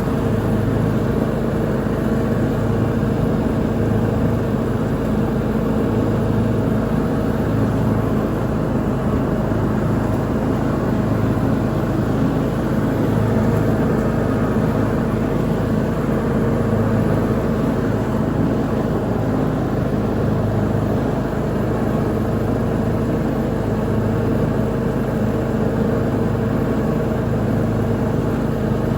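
Lawn mower engine running steadily at working speed while mowing, a constant drone with no changes in pitch.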